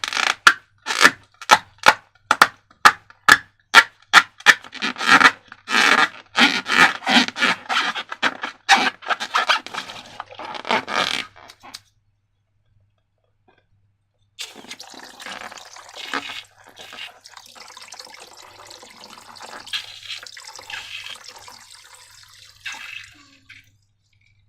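Slime-making sounds: crisp scraping strokes about twice a second for some twelve seconds, then, after a short pause, a steady stream of liquid being poured.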